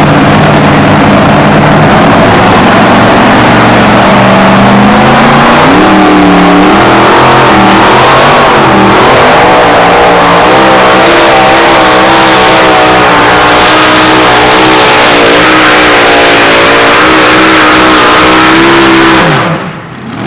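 Two-wheel-drive pulling truck's engine running flat out under load, its pitch climbing and wavering as it works down the track. It cuts off abruptly near the end, as the pull ends.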